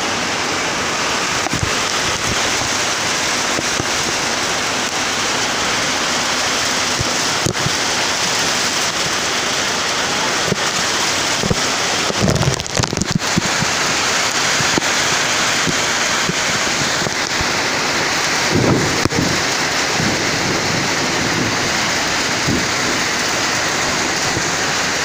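Heavy monsoon downpour in strong wind: a steady, dense hiss of rain. Wind gusts buffet the microphone twice, about halfway through and again about three-quarters through.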